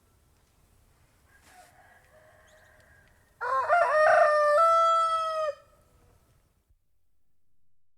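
Domestic rooster crowing once, a loud cock-a-doodle-doo about two seconds long starting about three and a half seconds in, in a few stepped notes ending on a long held one.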